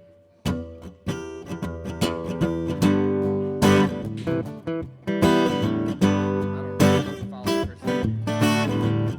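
Acoustic guitar playing a song intro: a few single plucked notes at first, then strummed chords in a steady rhythm from about three seconds in.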